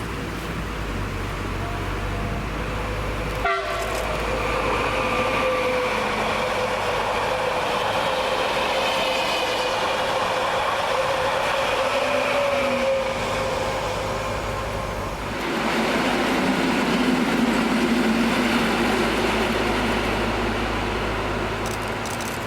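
Train running on the rails: a continuous rumble with steady tones over it. There is a sharp click about three and a half seconds in, and the sound shifts and grows louder about fifteen seconds in.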